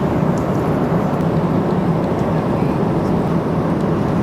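Steady, even cabin noise of a jet airliner in flight.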